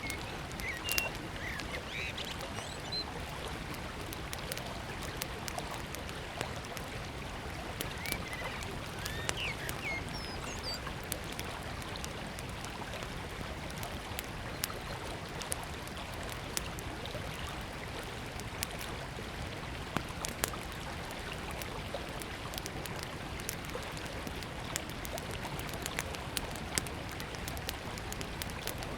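Small wood campfire crackling with sharp pops scattered throughout, over the steady rush of a river. A few short bird chirps come in the first ten seconds or so.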